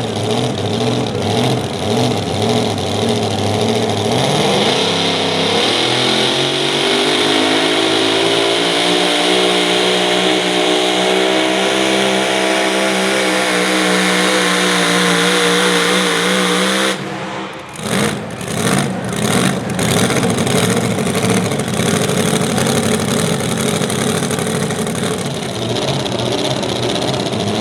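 Super modified four-wheel-drive pulling truck's engine revving up and holding at high revs for about eleven seconds under load, then cutting off suddenly as the throttle is shut. A few sharp cracks follow as it drops back to a rough idle.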